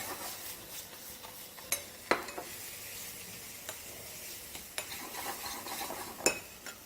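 A tomato and onion sauce with freshly added ground spices sizzling in a saucepan while it is stirred, with a few sharp knocks of the stirring utensil against the pan.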